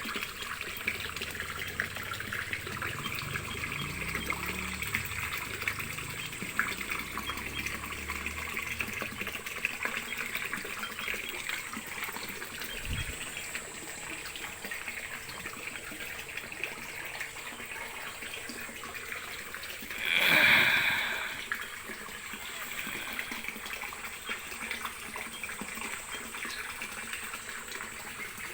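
Running water trickling and splashing steadily, as from a fish-pond or aquarium outflow. About twenty seconds in there is one brief, louder splash-like burst that fades within about a second.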